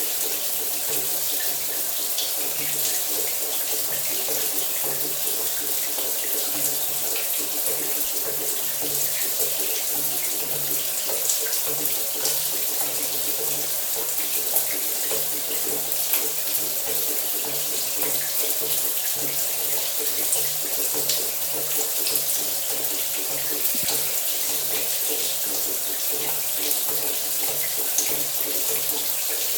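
Shower running steadily: an even rush of spraying water with small splashes throughout and a faint low hum underneath.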